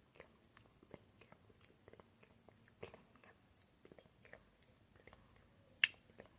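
Close-miked ASMR mouth sounds: irregular small tongue clicks and lip smacks, with one much louder smack near the end.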